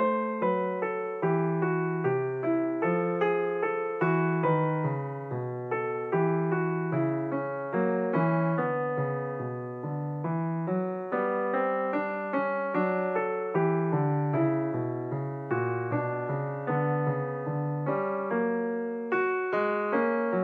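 Background piano music: a slow sequence of single notes and chords, each struck and then fading away.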